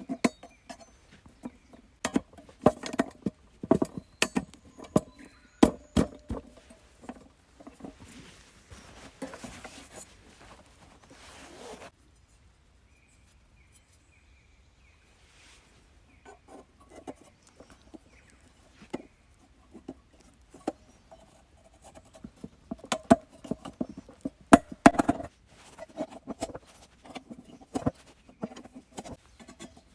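Irregular knocks and clatter of hard objects being handled, with a stretch of rustling about eight seconds in and a quiet pause from about twelve seconds before the knocking picks up again.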